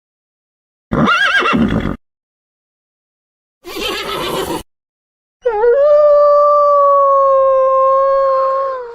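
Horse whinnying, a short call with a shaking pitch about a second in, then a brief breathy burst. A single long steady tone holds for about three and a half seconds in the second half.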